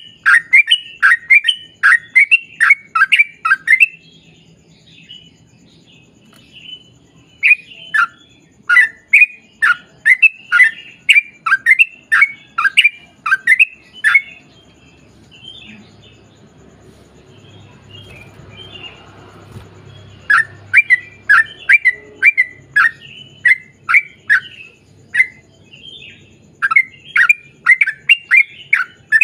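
Yellow-vented bulbul (trucukan) singing a long rapid run of short, loud, down-slurred whistled notes, about two a second. There are three runs, broken by pauses of a few seconds about four seconds in and again around the middle.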